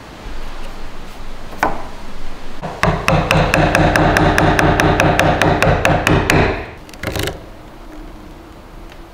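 A workshop tool rapping fast and evenly, about seven strikes a second, with a ringing tone under the strikes, for about three and a half seconds. It is preceded by a single knock and followed by a couple of loose knocks.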